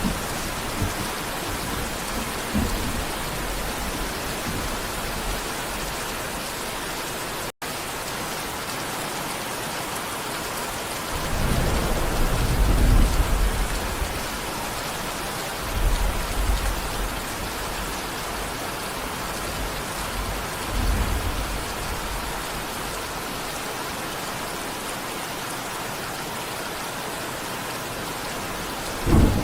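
Steady rain with thunder rumbling several times: a long roll about a third of the way in, shorter ones around the middle, and another near the end. A split-second dropout comes about a quarter of the way through.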